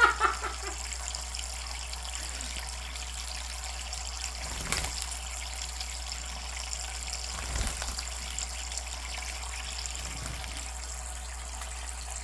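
Faucet water running steadily in a thin stream, with two soft knocks about five and eight seconds in.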